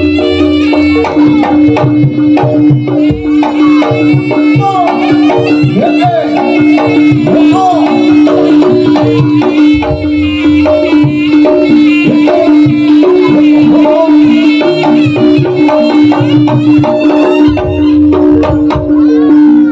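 Live jaranan music from a Javanese ensemble: kendang hand drums play a driving pattern over repeated gong-chime notes and one steady held tone. A wavering melody line rises and falls above them a few seconds in.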